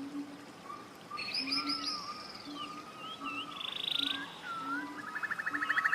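Several birds singing in a forest: whistled, swooping phrases and rapid trills, the loudest trill near the end. Under them runs a low, short call repeated about twice a second.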